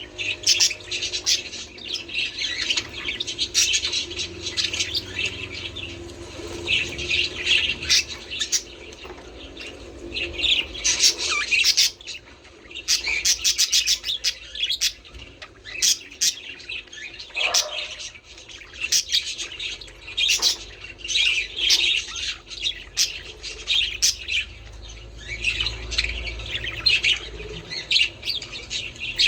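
A flock of budgerigars chattering and warbling: many rapid, high chirps and squawks in overlapping bursts.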